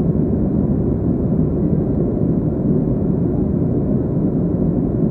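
Steady low rumble of a Boeing 737-300's CFM56 jet engines heard from inside the passenger cabin, even in level with no changes.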